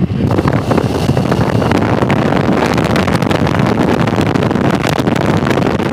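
Loud wind rushing over the microphone while a motorcycle rides at road speed, with the bike's engine and road noise beneath it.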